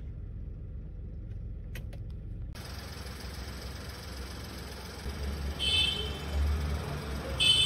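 Volkswagen Polo's engine idling steadily, heard as a low hum from inside the cabin, then from outside in front of the car after a cut about two and a half seconds in. Two short high-pitched beeps come near the middle and at the end.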